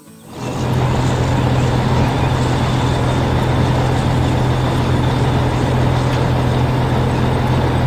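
Heavy vehicle engine running steadily and loudly, with a strong low hum under an even noise. It starts about half a second in and cuts off suddenly at the end.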